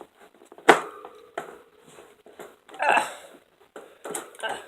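A bird's cage being opened and handled: a sharp knock about a second in, a rustling scrape near the middle, then a few small clicks near the end.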